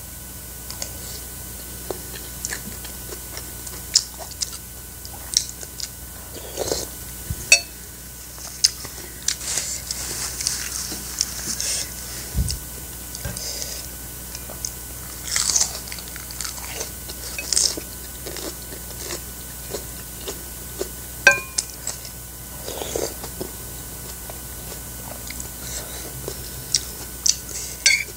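Close-miked eating: a person chewing and crunching mouthfuls of rice and lettuce, with scattered short clicks of a metal spoon against a ceramic plate.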